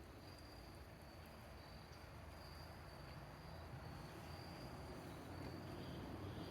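Faint insect trilling, a high steady tone that comes and goes in stretches of a second or so, over a low background rumble.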